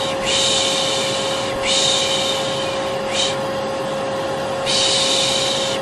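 A vacuum cleaner runs with a steady, even hum, overlaid by a person's long drawn-out 'shhh' shushes used to soothe a baby to sleep. There are four shushes, each about a second long, except for a brief one about three seconds in.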